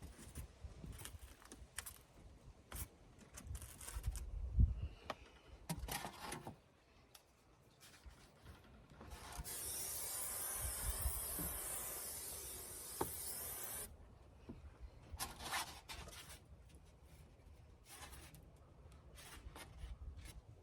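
Foam board insulation being handled and fitted: scattered rubbing, scraping and light knocks. A steady hiss runs from about nine seconds in for some four and a half seconds.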